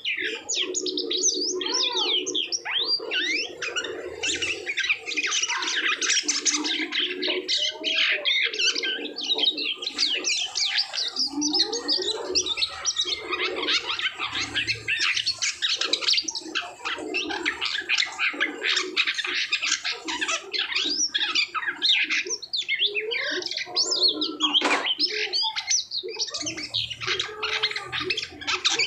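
White-shouldered starling (jalak kapas) singing a continuous, rapid chattering song of squeaky whistled notes mixed with low, harsh grating notes.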